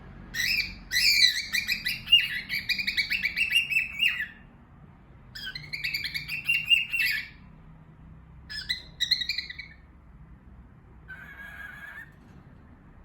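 Small pet parrots calling in bursts of rapid, pulsed chattering, the longest lasting about three seconds. Shorter calls follow, with a fainter, lower one near the end.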